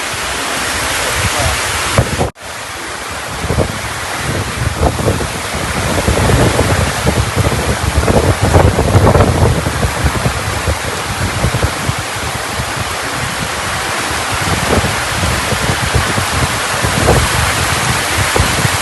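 Heavy rain pouring in a strong wind, with gusts buffeting the microphone in low, uneven rumbles. The sound cuts out for an instant about two seconds in.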